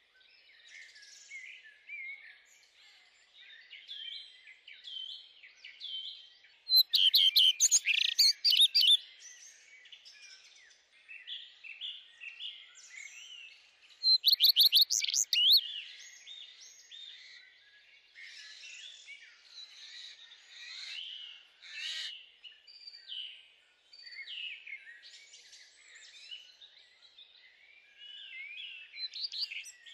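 Songbirds singing and chirping, many short overlapping calls, with two loud bursts of rapid repeated notes, about 7 and 14 seconds in.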